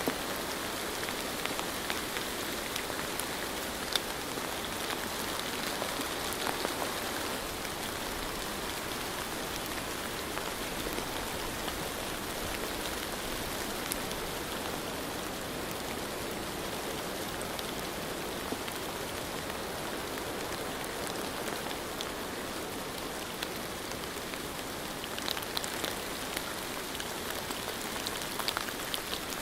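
Steady rain: an even hiss with scattered sharper drop taps, a small cluster of them near the end.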